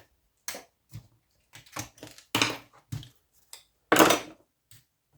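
Irregular knocks and clatters of scrap electronic parts being handled and pried apart on a workbench, about seven separate hits with the loudest about four seconds in.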